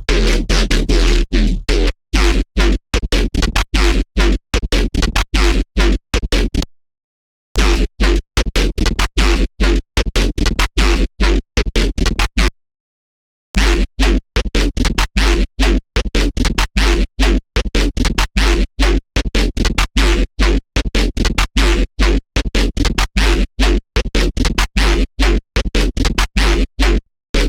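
Electronic music from a Serum wavetable synth patch built from an AI-image wavetable: a heavy, bass-laden sound played in rapid, choppy short notes, with two brief dropouts to silence.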